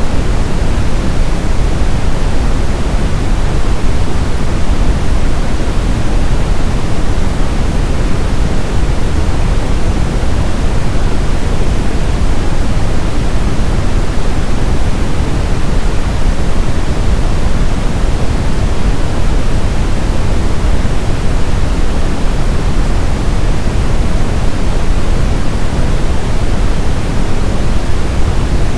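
Brown noise, a synthetic noise signal: a steady, deep rushing hiss with most of its energy in the bass and little in the treble, unchanging throughout.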